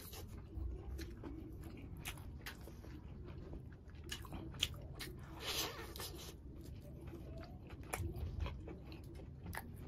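Close-miked biting and chewing of a curried desi chicken leg: wet mouth sounds and chewing with many short sharp clicks and smacks, and one louder noisy burst about halfway through.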